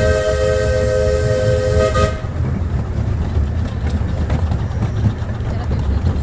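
Live-steam locomotive's chime whistle blowing one held chord that cuts off about two seconds in, over the steady low rumble and clatter of the train running on the rails.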